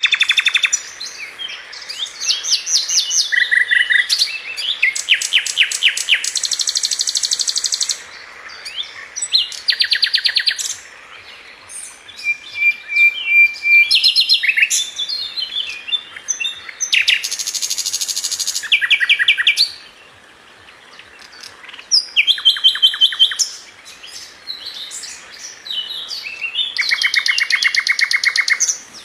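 Flycatcher song of the kind sold as 'Sikatan London': a series of fast, dry trills and rattling phrases, each about a second or two long, high-pitched, with short pauses between them.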